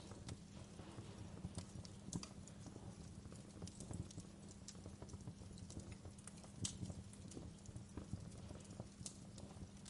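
Wood fire crackling: irregular small pops and snaps, a sharper one near the start and another past the middle, over a low steady rumble.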